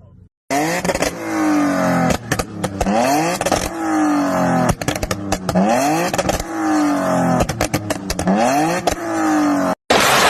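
A car engine revved hard again and again through a loud aftermarket exhaust. Its pitch climbs and falls back about every second and a half, with crackles and pops as the revs drop. Near the end it cuts off abruptly and a loud, even rushing noise takes over.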